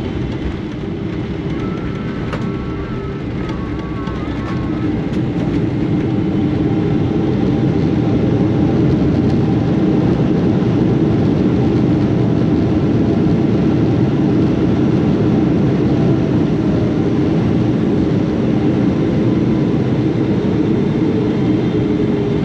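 Loud, steady roar of a Boeing 777-300's jet engines and airflow heard inside the cabin during the landing at Haneda, growing louder a few seconds in and then holding steady.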